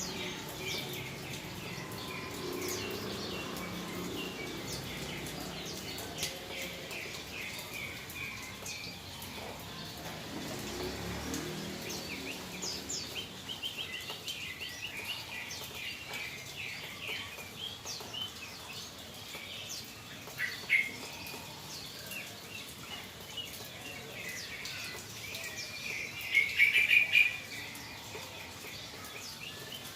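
Yellow-vented bulbul (trucukan) chirping in many short, quick calls, with a louder burst of calls near the end.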